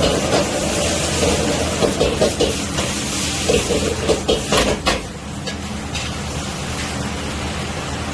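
Gochu japchae being stir-fried: a metal ladle knocking and scraping against a wok over a steady rushing noise with sizzling. The knocks stop about five seconds in, leaving the steady noise.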